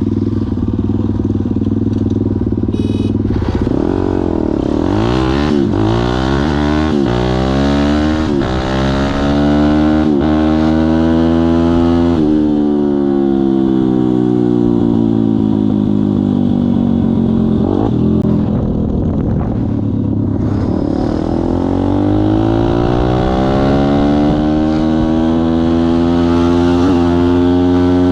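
Kayo pit bike's single-cylinder engine being ridden hard, revving up and down. Its pitch climbs in several short rises, falls away slowly in the middle, then climbs steadily again near the end.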